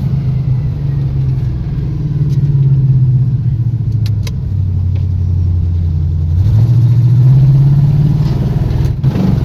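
Squarebody Chevy drag truck's engine pulling hard at wide-open throttle with the carburetor's secondaries open. The engine pitch climbs, drops back about halfway through, then climbs again from about six seconds in.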